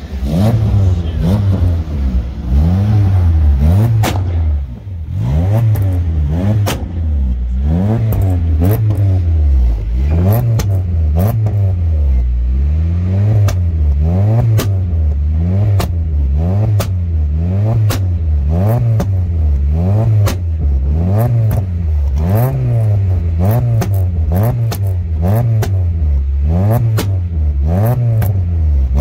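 Car engines on two-step launch control, revved up and down over and over, with sharp exhaust pops and bangs throughout.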